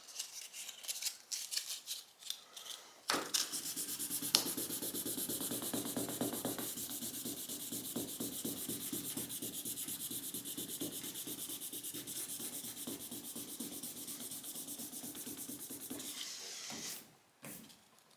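1000-grit sandpaper on a paint stick rubbed over automotive clear coat to level a paint run. A few separate strokes come first, then fast, even back-and-forth rubbing starts about three seconds in and stops shortly before the end.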